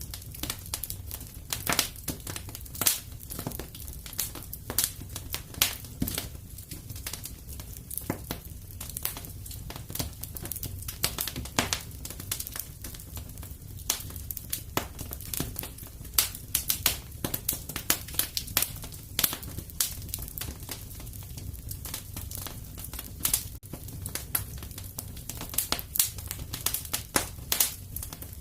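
Wood fire crackling in a fireplace: a steady low rumble with irregular sharp pops and snaps, several a second.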